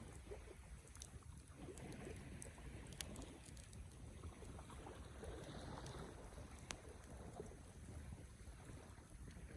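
Wood campfire burning, with sharp crackles and pops every second or so, the loudest about three seconds in and another near seven seconds, over a steady low rumble.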